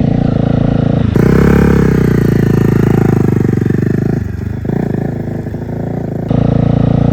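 Honda CBR250 motorcycle engine running while being ridden, its pitch rising and falling a little with the throttle. It gets louder about a second in, drops back around four seconds in, and comes up again near the end.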